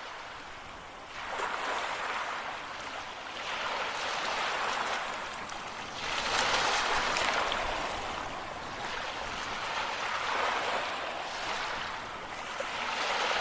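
Small sea waves washing onto a sandy shore, each one swelling and falling away every few seconds.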